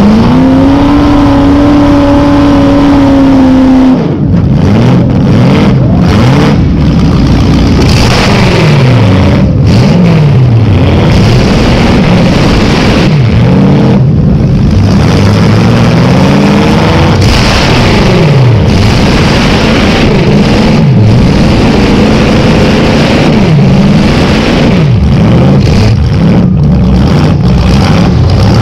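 Demolition derby Chevrolet Caprice's V8 running loud through short open exhaust pipes sticking up out of the hood. It is held at steady high revs at first, then revved up and down again and again, with short sharp knocks scattered through.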